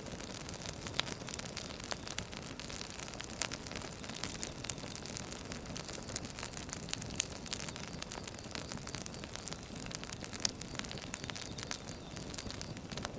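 Wood fire crackling: irregular sharp pops and snaps over a steady soft hiss, with one louder pop about seven seconds in.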